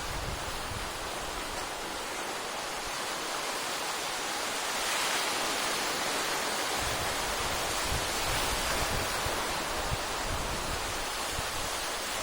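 Steady rush of sea surf, waves breaking continuously on the shore, swelling a little about five seconds in. Gusts of strong wind rumble on the microphone in the second half.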